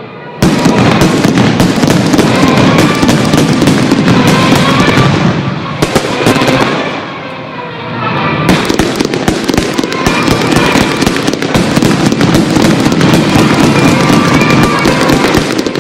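Fireworks display: a dense barrage of bursts and crackling that starts suddenly about half a second in, eases off for a couple of seconds in the middle, then builds again. Music plays underneath.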